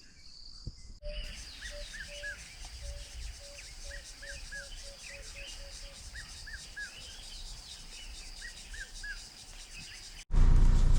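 Bush ambience: a steady high insect whine, a bird calling a run of short low notes that speed up, and another bird repeating a quick three-note phrase every couple of seconds. Near the end it cuts abruptly to a much louder low rumble, like a vehicle.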